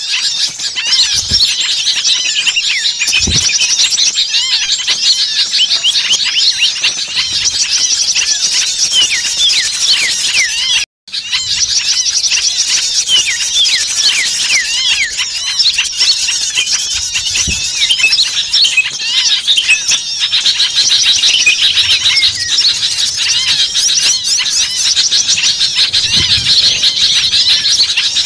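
Bird-lure recording of many small songbirds calling noisily over one another, a dense, continuous chatter of rapid high chirps and squeaky rising and falling notes. The sound cuts out completely for a moment about eleven seconds in, then resumes.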